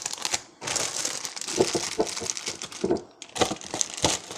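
Plastic food packaging crinkling and rustling as it is handled one-handed, with a few small knocks.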